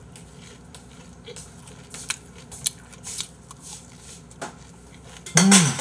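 Close-up chewing of crispy fried food, a scatter of sharp crunchy clicks. Near the end comes a short, loud voiced hum that rises and falls in pitch.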